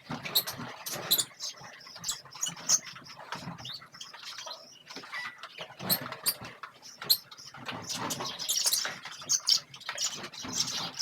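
Small caged birds chirping in quick, irregular short notes, mixed with light clicks and rustling.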